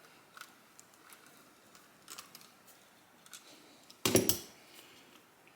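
Light metallic clicks and clinks of hand tools and small carburettor parts being handled, then a louder metal clatter about four seconds in.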